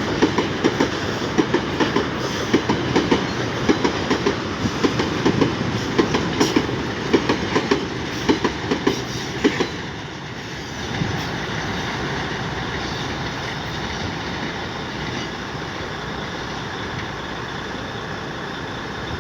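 Transap freight train's wagons rolling over a bridge, their wheels clacking in a regular rhythm over the rail joints. The clacking stops about halfway through, leaving a steadier, quieter rumble.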